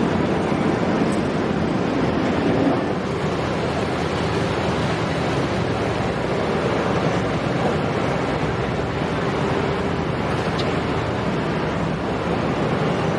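Steady rushing noise of wind on the microphone and water, with boats running.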